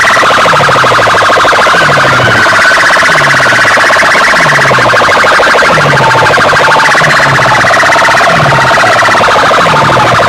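Very loud DJ sound-system playback of an alarm-like electronic track: a fast-pulsing, warbling tone over a deep bass sweep that falls in pitch about once a second.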